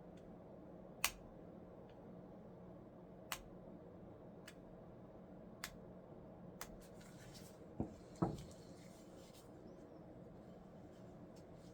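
Scattered sharp clicks and taps from small parts and tools being handled, about six in all, the two loudest close together near the end, with a short soft rustle between them. A steady low hum runs underneath.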